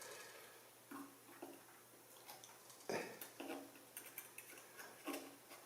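Faint, scattered light clicks and taps of hands and small tools working a tiny etched-brass detail part free from its holder.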